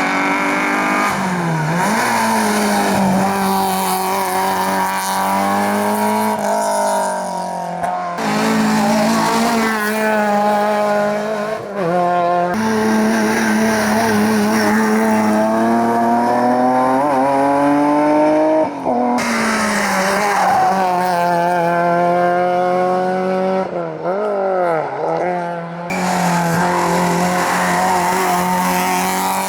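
Competition cars' engines at hard throttle, revs rising and dropping through gear changes, in several short takes spliced together with abrupt cuts about every four to seven seconds.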